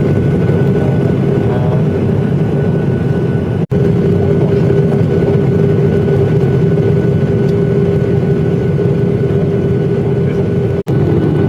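Airliner engine and airflow noise inside the cabin: a steady rushing drone with a constant hum. The sound cuts out for an instant twice, a few seconds in and near the end.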